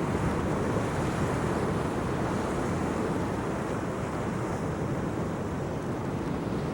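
Sea waves washing on the shore and strong wind buffeting the microphone, a steady noise heaviest in the low end.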